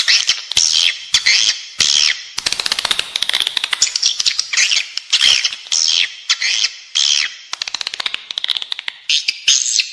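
Edible-nest swiftlets twittering: rapid trains of high clicks and chirps repeating in quick bursts. This is the indoor lure call played in swiftlet houses to draw the birds in to nest.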